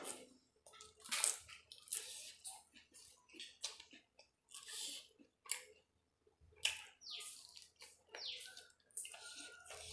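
A person chewing and biting into tandoori chicken, with irregular wet mouth sounds a few times a second.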